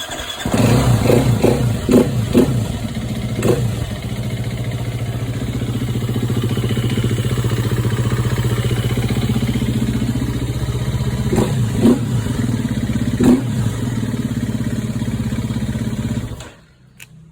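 KTM 250 XCF-W single-cylinder four-stroke dirt bike engine idling, with a handful of quick throttle blips in the first few seconds and again about twelve seconds in, then shut off near the end.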